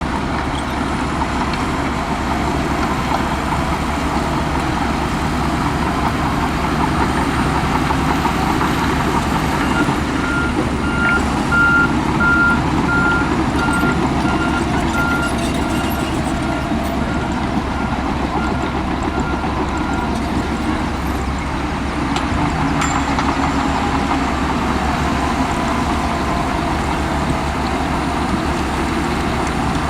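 Heavy diesel earthmoving machinery running under load with a steady engine rumble. From about a third of the way in until about two-thirds, a reversing alarm beeps about once a second.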